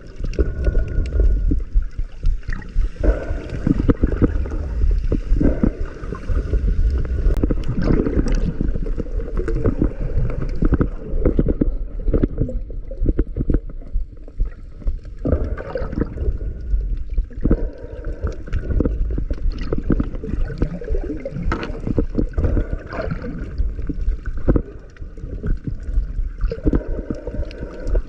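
Water sloshing, gurgling and bubbling, muffled and heavy in the low end, picked up by a camera underwater.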